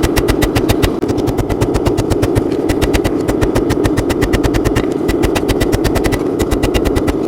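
Drawknife steel being forged with rapid, evenly spaced hammer blows, about seven a second, over a steady drone.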